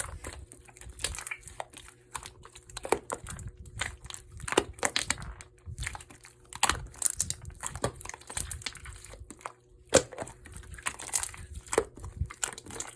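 Irregular crinkling and crackling handling noise, with sharp clicks every second or two.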